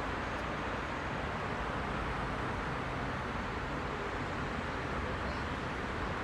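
Heavy rush-hour road traffic: a steady, dense hum of car engines and tyres on the road, with no single vehicle standing out.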